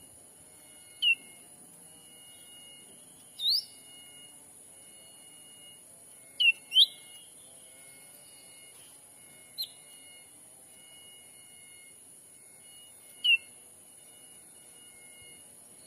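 Short, sharp whistled bird calls played as a lure for cucak ranting, about six in all, each a quick slide up or down in pitch. A steady high insect drone runs beneath them.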